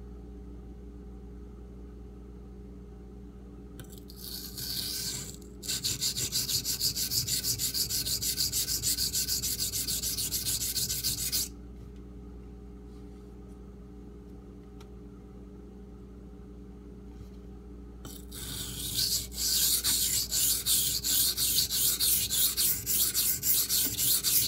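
Steel knife blade scraping back and forth across a Shapton Pro 1000-grit water stone in quick strokes. There are two runs of sharpening strokes: one a few seconds in and a longer one in the last third, with a quiet pause between them.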